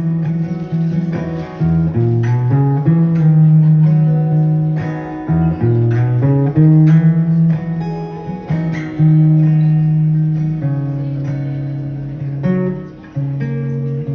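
Guitar playing an instrumental passage of ringing plucked chords that change every second or two, with no singing.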